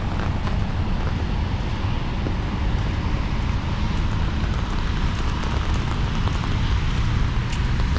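Steady rain hiss under a heavy, continuous low rumble of wind buffeting the microphone, with a few faint ticks of drops.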